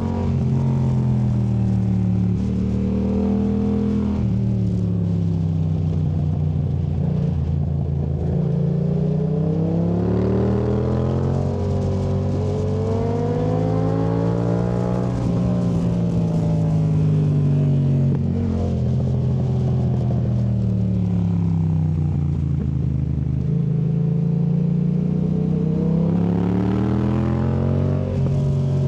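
2019 Yamaha MT-07's parallel-twin engine through a Yoshimura AT2 Race exhaust, under way with revs repeatedly climbing and falling as it accelerates and rolls off through tight bends. The revs drop near the start, climb to a peak about midway, fall, then climb again near the end.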